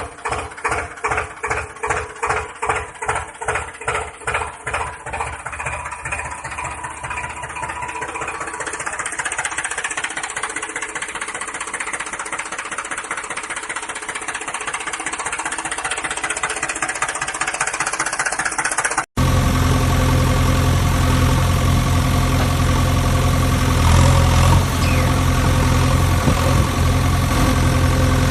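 Tractor engine sound: slow, even chugging beats that speed up and blend into a steady run over the first several seconds, like an engine starting. About two-thirds of the way in it cuts off abruptly and a louder, deeper engine takes over, running steadily.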